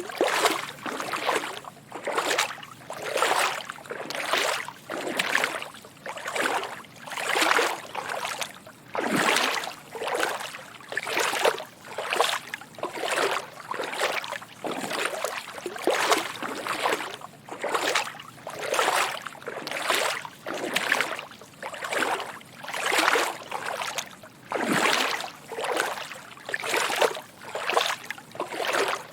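Footsteps wading through shallow water: a steady walking rhythm of sloshing splashes, about one step every second.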